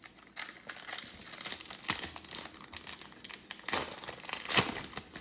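Trading-card pack wrapper being torn open and crinkled: a run of crackling rustles, with sharper rips about two seconds in and again near the end.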